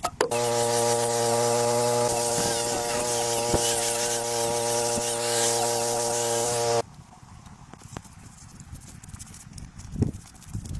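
A steady, even-pitched mechanical buzz over a hiss, which cuts off abruptly about seven seconds in; faint scattered sounds follow.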